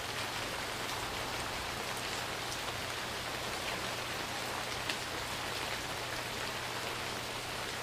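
Steady rain falling, with now and then a single drop striking close by.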